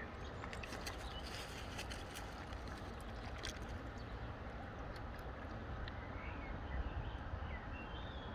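Steady outdoor noise with a low rumble, with a few faint, short bird calls, a cluster of them about six to eight seconds in.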